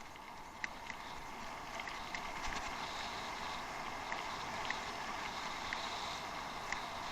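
Bicycle riding off-road: a steady rolling noise of tyres on a rough dirt or gravel trail that grows slightly louder about two seconds in, with scattered small clicks from stones and the bike.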